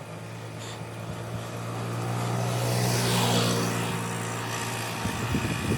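A motor vehicle engine hums steadily. A passing vehicle's rush of noise swells to a peak about three seconds in and then fades away.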